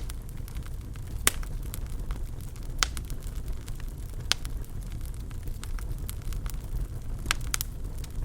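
Wood fire burning in a fireplace: a steady low rumble of flame with sharp crackles and pops at irregular intervals, the loudest pops about a second in, near three and four seconds in, and a close pair near the end.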